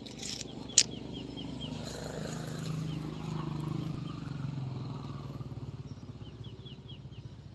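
A motor engine running, growing louder in the middle and fading away again. There is a single sharp click about a second in, and a quick run of short high chirps near the start and again near the end.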